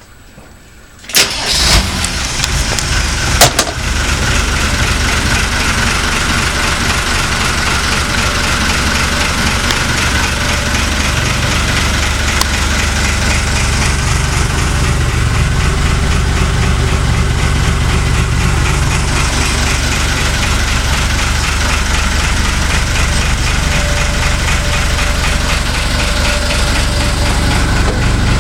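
Yamaha DX33 engine starting: it cranks and catches about a second in, with a sharp click at about three and a half seconds, then settles into a steady idle.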